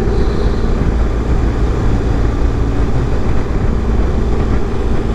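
Steady wind rush over the microphone of a BMW 1200 boxer-twin motorcycle riding at road speed, with the engine running beneath it.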